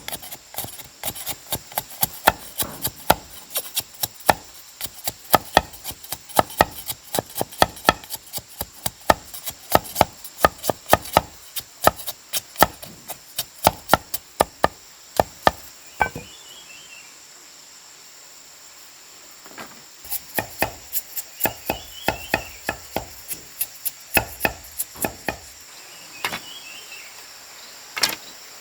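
Rapid chopping strikes on wood, about three a second, with a pause of a few seconds just past the middle before the strikes resume more sparsely. A steady high insect drone runs underneath.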